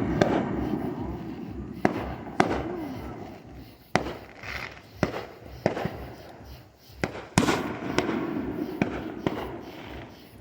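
Consumer fireworks going off: about a dozen sharp bangs at uneven intervals, the bigger ones trailed by crackling hiss. There is a loud burst right at the start and another about seven seconds in.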